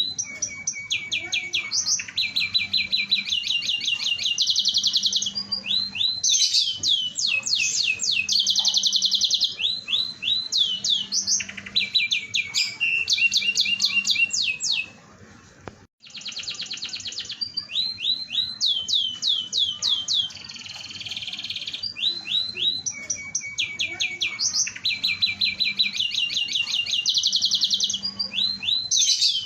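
Canary singing a long song of fast trills, each phrase one note rapidly repeated before switching to a new note. The song breaks off for about a second just before the middle, then starts again.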